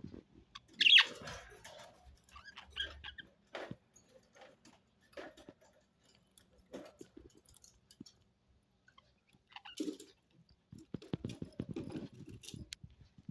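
Pet budgies making small scattered clicks and ticks, with one louder sound about a second in and a quick run of ticks near the end.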